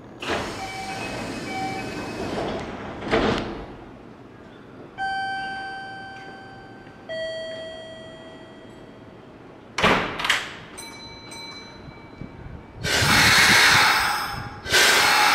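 Electric commuter train at a station platform: a two-note falling chime rings, train doors shut with a couple of sharp knocks, and then loud rushing train noise rises near the end as a train moves along the platform.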